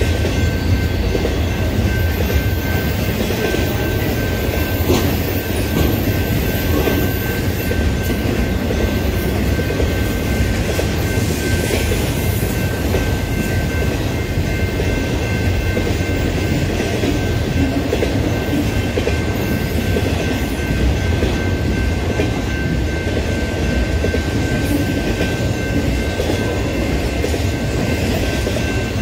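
BNSF intermodal freight train passing: a steady rumble and clickety-clack of its cars' wheels on the rails, with a few thin steady high tones over it.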